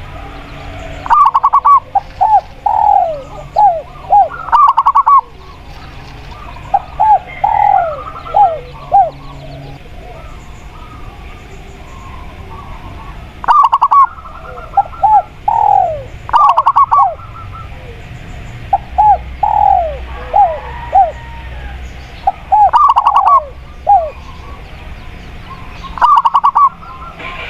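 Zebra dove (perkutut) singing its staccato cooing song, repeated several times. Each phrase opens with a quick rattle of notes and runs into a string of short, falling coos, over a faint steady background hum.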